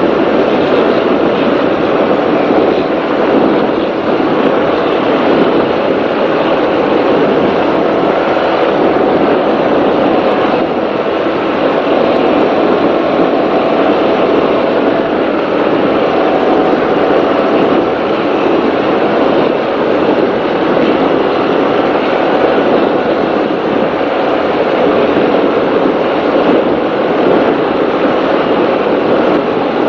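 Offshore racing powerboat running at speed, heard from on board: a loud, steady engine drone with a rushing noise over it and no let-up.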